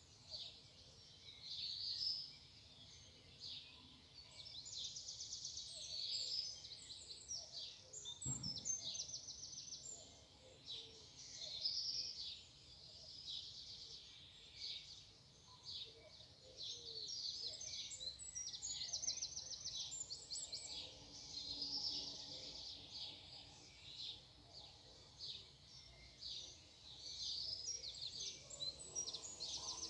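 Songbirds singing in a morning chorus, overlapping phrases and fast repeated trills coming and going throughout. A brief low thump about eight seconds in.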